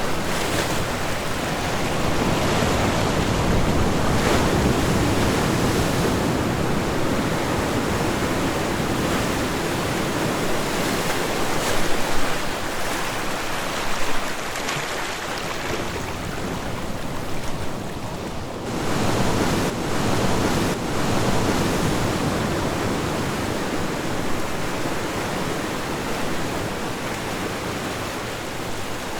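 Ocean waves breaking on the shore, a continuous wash of surf that swells and ebbs, with a lull shortly past halfway and a fresh surge right after it. Wind buffets the microphone at times.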